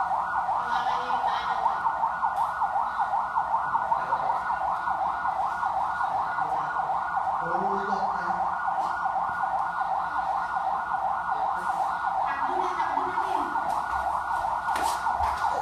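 Electronic alarm siren sounding continuously, its pitch warbling rapidly up and down: the alarm signal of an earthquake drill.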